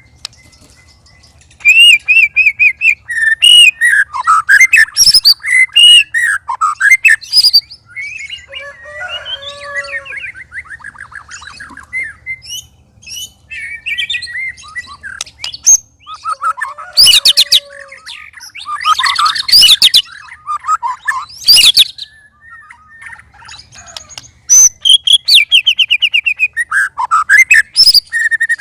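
White-rumped shama singing a loud, varied song of whistled notes, rapid trills and chattering phrases, coming in bursts with short pauses and starting about a second and a half in.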